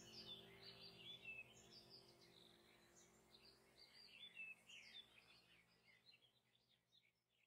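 Faint chirping and twittering of small birds over a low steady hum, all fading out gradually toward the end.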